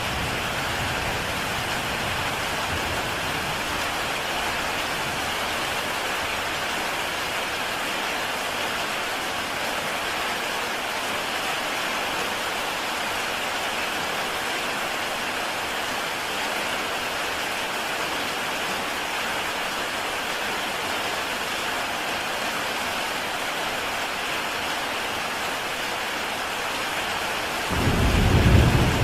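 Heavy rain falling on a tile roof, a steady even hiss of drops. A low rumble of thunder rolls in near the end and is the loudest sound.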